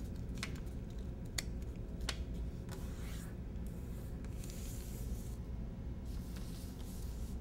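A sheet of paper being handled and folded: a few sharp crackles in the first two seconds, then soft rubbing and sliding as the creases are pressed down.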